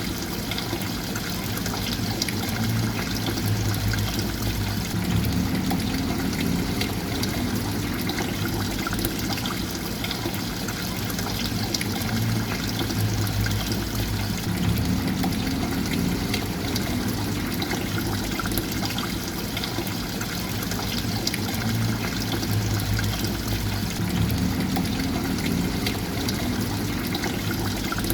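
Steadily flowing, trickling water, with a low swell that recurs about every ten seconds.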